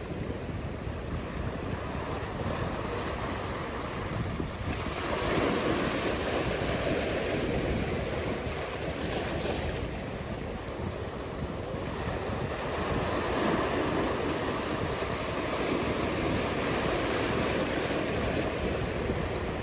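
Ocean surf: waves breaking and washing in a steady rush, swelling about five seconds in and again from about thirteen seconds.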